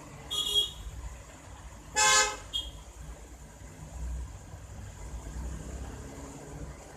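Short horn-like honks: a brief one near the start, then a louder one about two seconds in, followed by a quick short blip, over a low background rumble.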